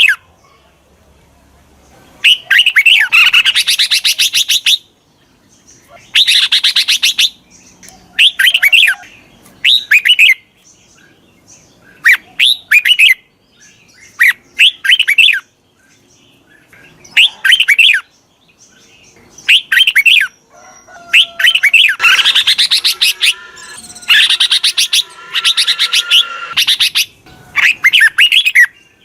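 Red-whiskered bulbul singing: repeated short bouts of rapid, loud chirping notes with brief pauses between them.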